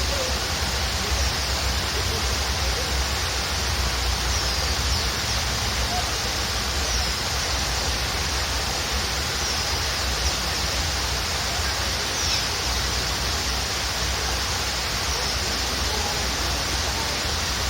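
Waterfall rushing steadily, with small birds chirping: short, high, falling chirps every second or two.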